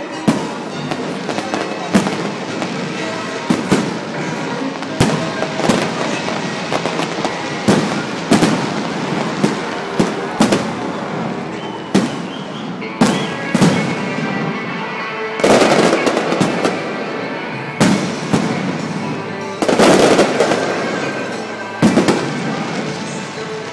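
Aerial fireworks display: a quick series of sharp shell bursts, each bang followed by crackling, with two heavier barrages of dense crackle in the second half.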